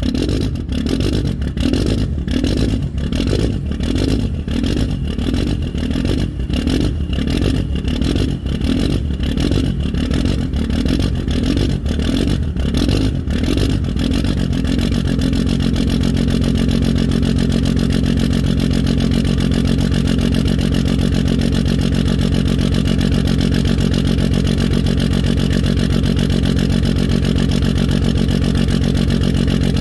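1995 Cummins 12-valve 5.9 L inline-six turbodiesel running through a 5-inch exhaust just after a cold start without the grid heater. It runs unevenly, in lumpy pulses, for about the first half, then settles into a steady idle.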